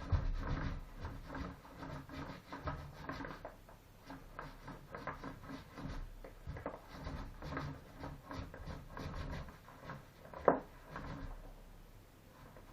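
Irregular rubbing and light knocks of hand work, with one sharp click about ten seconds in.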